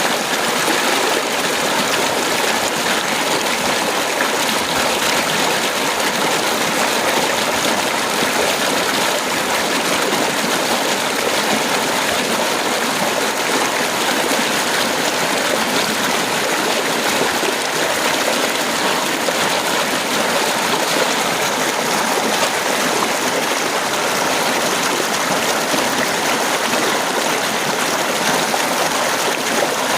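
Heavy rain falling steadily, a dense, even hiss with no breaks or thunder claps.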